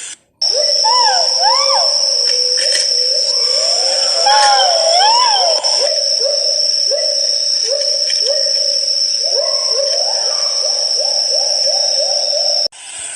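Great argus calling: a long series of short rising hoots that come faster and faster toward the end, mixed with a few arching whistled calls, over a steady high-pitched tone. The sound starts abruptly about half a second in and cuts off just before the end.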